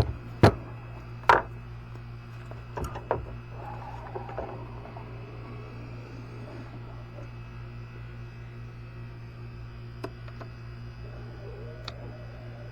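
Sharp knocks and clanks of tools on metal: two loud strikes in the first second and a half, a couple of lighter ones about three seconds in and a few faint taps later, over a steady low hum.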